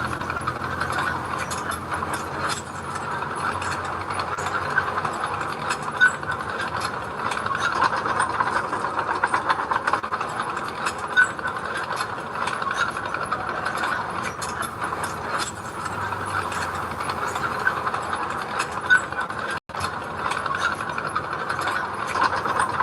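Bulldozer working, its engine running steadily under a dense, rapid metallic clatter, with a louder knock every few seconds. The sound breaks off for an instant near the end.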